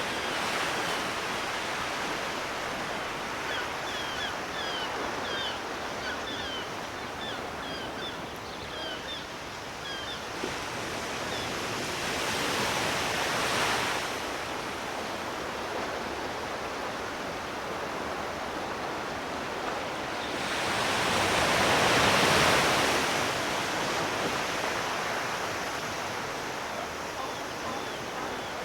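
Sea waves washing ashore: a steady hiss of surf with two bigger waves swelling and breaking, the larger one about twenty-two seconds in.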